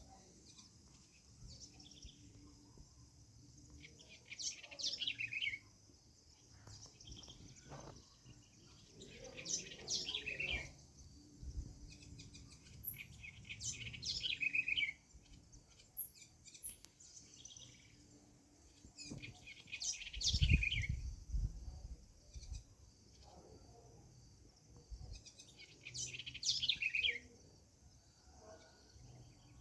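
A bird singing the same short phrase again and again, a quick series of notes sliding down in pitch, repeated about every five seconds, over a steady high hiss. A brief low rumble comes about two-thirds of the way through.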